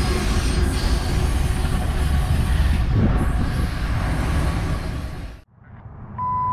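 Rear of a loaded coal train with a GE ES44AC distributed-power locomotive pushing at the end, rolling away: wheel-on-rail noise and engine rumble, steady and then fading, cut off abruptly about five and a half seconds in. A short high beep follows near the end over quiet outdoor background.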